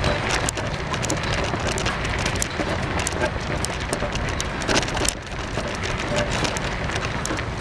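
Bicycle rolling over a rough dirt path: tyres crunching, with a dense patter of small clicks and rattles over a steady low rumble.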